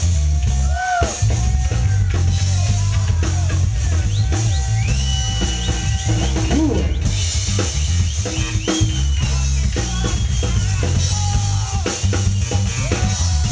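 Instrumental break of a funk-rock song: a drum kit and bass keep a steady groove while lead notes bend and slide up and down above them.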